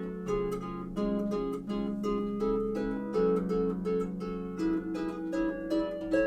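Background harp music: a quick, steady run of plucked notes over longer-ringing low notes.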